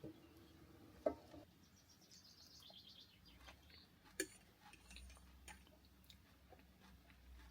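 Quiet surroundings broken by a few sharp clicks and knocks, the loudest about a second in and another about four seconds in, with a short run of high chirps between two and three and a half seconds in.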